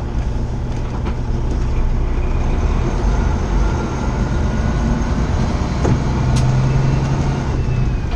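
Semi-truck running down the road, heard from inside the cab: a steady engine drone with road noise, and a faint whine that climbs slowly in pitch from about three seconds in.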